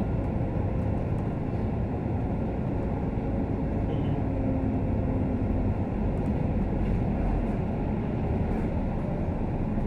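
Scania K310UD double-decker bus under way, heard from inside the cabin: steady engine and road noise, with a faint tone for a couple of seconds in the middle.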